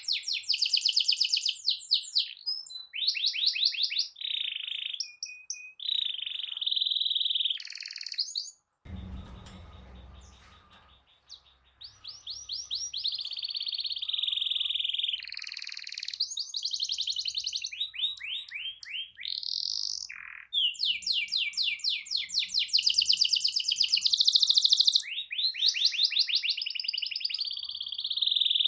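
Domestic canary singing long, fast rolling trills of rapidly repeated high notes, the 'ngerol panjang' rolls prized in a 'gacor' canary. About nine seconds in the song breaks off with a brief dull thump, then resumes, softer at first and loud again near the end.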